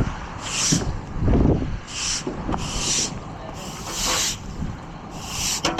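A broom sweeping broken glass off the road: a series of short, hissing scrape strokes, about six of them, each under a second long.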